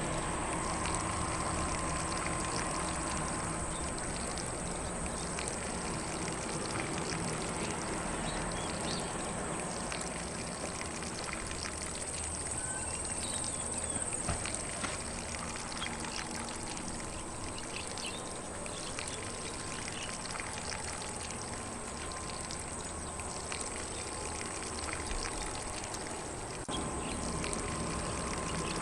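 Lawn sprinkler spraying water in a steady, even hiss, with faint occasional birdsong.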